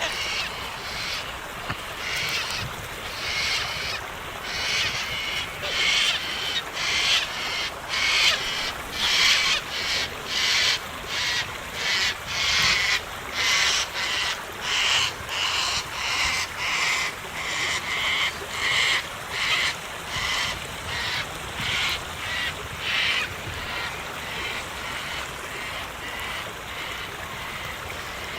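A parrot calling in a long run of harsh, evenly repeated squawks, a little more than one a second, which stop a few seconds before the end, over a steady background hiss.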